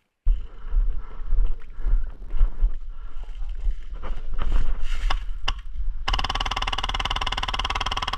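Wind buffeting the microphone with a few scattered sharp clicks, then, about six seconds in, a rapid continuous burst from an electric airsoft gun firing on full auto for about two seconds.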